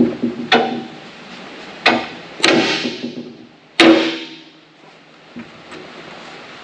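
Sharp metal clanks and knocks from tools working a stuck bolt on a skid steer bucket's cutting edge: about five hard hits in the first four seconds, the later ones ringing briefly, then a couple of light ticks.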